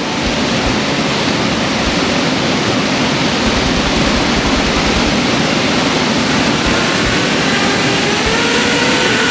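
Steady rushing of a waterfall. In the last few seconds, a faint rising whine from an FPV quadcopter's motors spooling up for takeoff.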